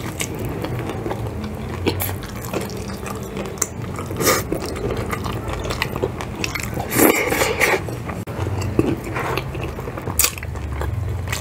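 Close-up chewing and biting of crispy spicy fried chicken: a steady run of crackly crunches from the breading, with several louder bites about 4, 7 and 10 seconds in.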